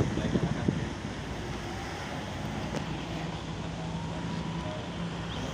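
Wind buffeting the microphone, with a few low thumps in the first second. Under it, from about halfway in, is the faint steady hum of a flying radio-controlled model airplane's motor, its pitch rising slightly.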